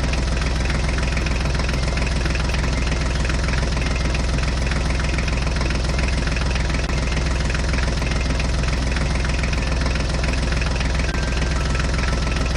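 Tractor engine sound idling steadily, a fast even beat over a deep hum, at an unchanging level.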